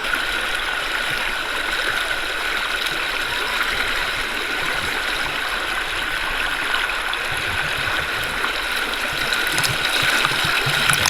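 Shallow forest river rushing and splashing over rocks, a steady water noise that grows a little louder near the end.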